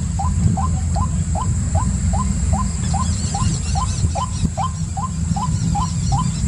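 An animal's short call repeated very regularly, about two and a half times a second. Small high bird chirps join it from about three seconds in, over a steady low rumble.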